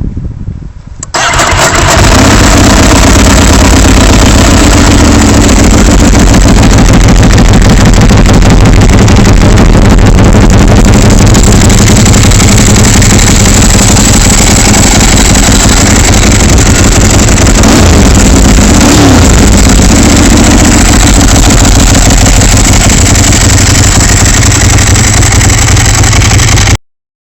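Ducati 1098S's L-twin engine starting up about a second in, then running loud and steady at idle. It cuts off abruptly near the end.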